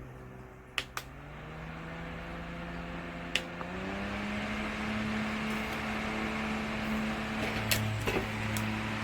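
Battery-powered portable fan switched up through its speeds: a couple of button clicks, then the motor hum steps up in pitch about a second in and again near four seconds, with the rush of air growing louder. A few more clicks near the end.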